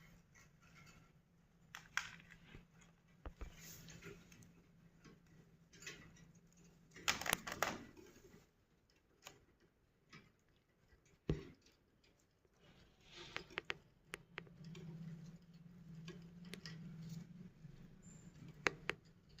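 Budgerigars scratching and pecking about their cage: faint, scattered clicks and scratches over a low steady hum, with a louder rustle about seven seconds in.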